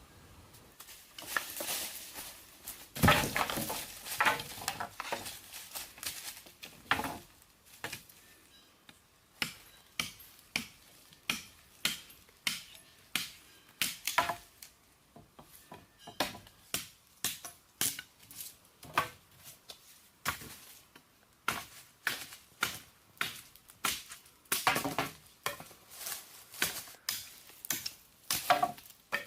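Blade chopping on a cutting surface in steady strokes, about one and a half a second, after a few seconds of knocking and handling sounds.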